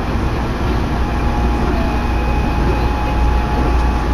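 Steady running noise of a commuter train heard from inside the car: a low rumble, with a thin steady tone coming in about a second in.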